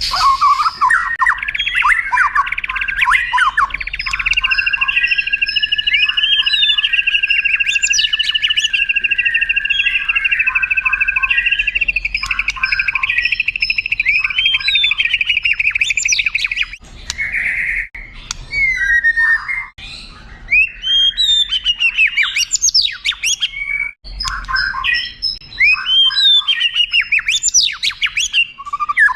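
White-rumped shama (murai batu) singing: a long, fast rolling trill held for about fourteen seconds, then a run of varied whistles and sweeping notes.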